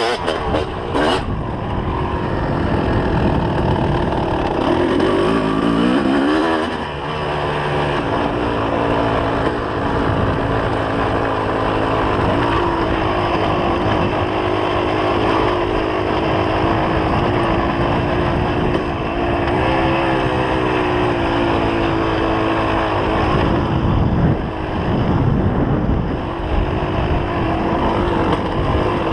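2004 Kawasaki KX250's two-stroke single-cylinder engine being ridden hard, its pitch rising and falling with the throttle. It climbs steeply a few seconds in, holds high through the middle and drops back briefly near the end.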